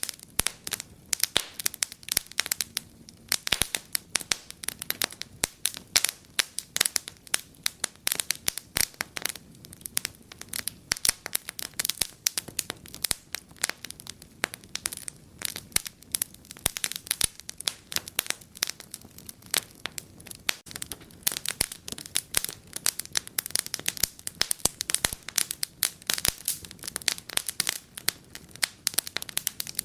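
Wood fire in a fireplace crackling, with a steady run of sharp, irregular pops and snaps.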